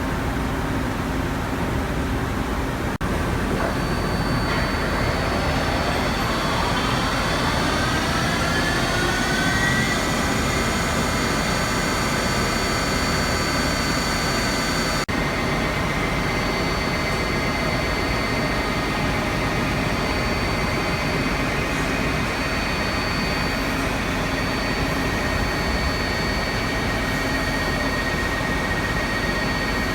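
Cincinnati Gilbert 350P horizontal boring mill running under power: over a steady machine hum, a whine rises in pitch for about six seconds as the spindle drive speeds up, then holds at a steady pitch.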